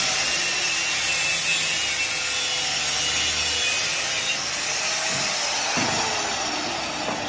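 Steady rasping, sawing-like noise of a tool working on a hydraulic hose.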